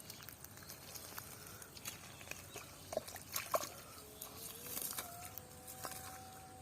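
Scattered small splashes and wet clicks of water and mud being worked by hand. A faint steady hum comes in about four seconds in.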